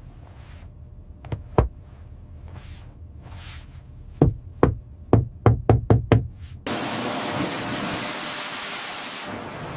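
Sharp knocks: two, then a quick run of about eight. Partway through, a loud steady hiss starts suddenly and holds.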